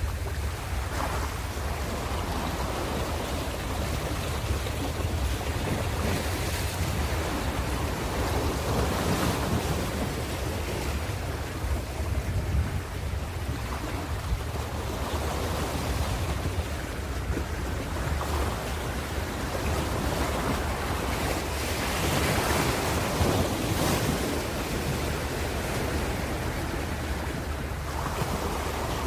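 Ocean surf breaking on a shore: a continuous wash of surging water that swells and falls back every few seconds, over a steady low rumble.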